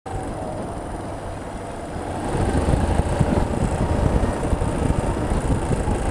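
Suzuki VanVan motorcycle riding in traffic: engine and wind noise rumbling on the helmet or bike microphone, getting louder about two seconds in.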